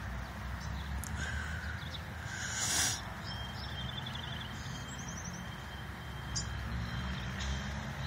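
Birds chirping in the background: a few short calls and a couple of quick trills of repeated notes, over a steady low hum.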